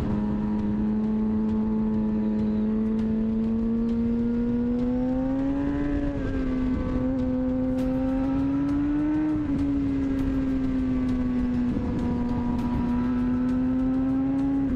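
Motorcycle engine running at a steady cruising speed, its pitch rising a little twice and settling back, over a low rumble.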